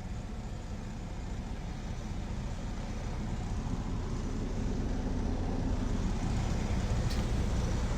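Diesel truck engine idling, heard inside the cab: a steady low running sound that grows gradually louder.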